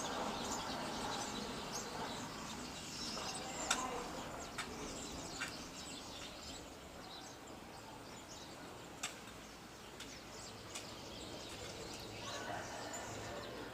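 Small birds chirping, with short calls scattered throughout over a steady outdoor ambient hiss, and a few short sharp clicks.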